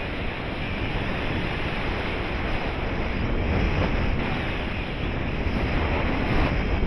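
Steady rush of airflow buffeting the microphone of a paraglider in flight.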